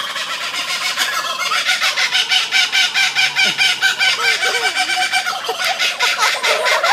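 Laughing kookaburras calling in chorus: a dense run of rapid, repeated cackling notes that grows louder about two seconds in.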